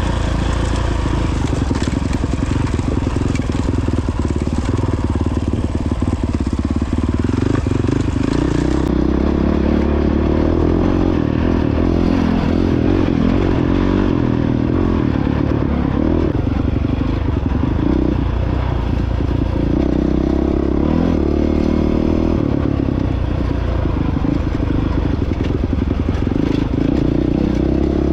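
2022 Honda CRF450X dirt bike's single-cylinder four-stroke engine running steadily while riding, its revs rising and falling.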